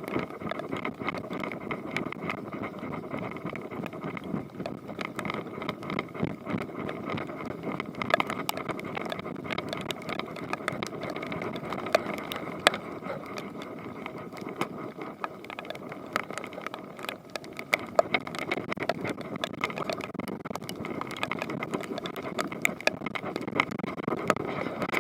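Spinning reel being cranked continuously with a steady gear whir, over many small clicks and ticks.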